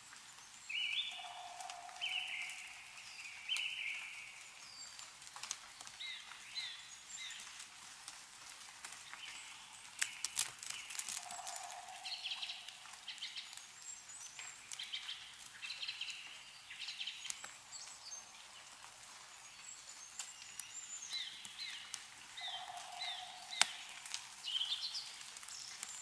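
Several small birds chirping and calling in quick short phrases, with a lower held note three times, about eleven seconds apart. Scattered faint clicks of drips from melting snow fall through it.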